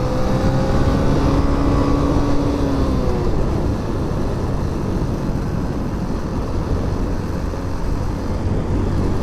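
Motorcycle engine running under way, its pitch rising slowly for about three seconds before it fades, leaving a steady rumble of wind and road noise.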